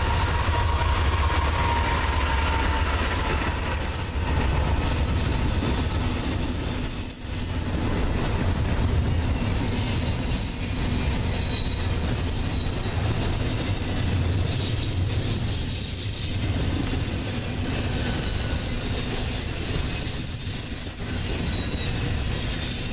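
Freight train cars rolling past with a steady low rumble and intermittent high-pitched squeal from the steel wheels on the rail.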